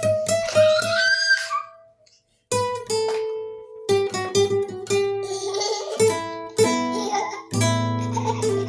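Guitar playing an instrumental melody note by note, stopping for a moment about two seconds in, then resuming, with deeper bass notes joining in the second half.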